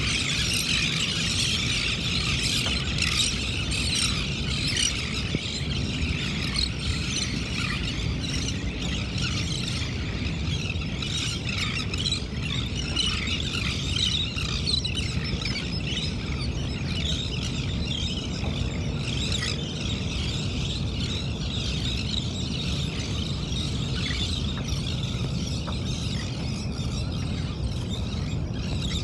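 A flock of birds calling continuously, many high squealing calls overlapping into a dense chatter, over a steady low rumble.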